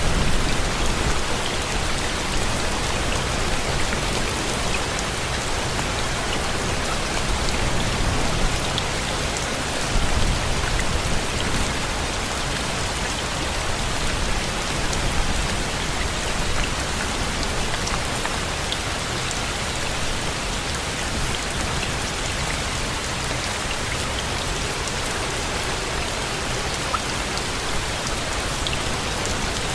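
Steady rain falling, a dense even hiss with scattered individual drop ticks and a low rumble underneath.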